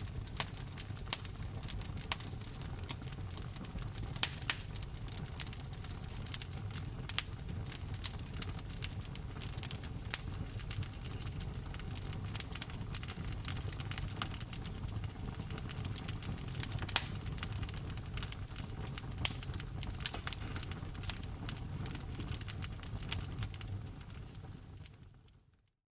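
Wood fire burning in a fireplace, crackling with frequent sharp pops over a low steady rumble of the flames. It fades out to silence near the end.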